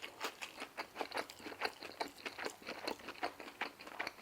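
Close-miked chewing of crisp deep-fried food: a quick run of crunches, several a second.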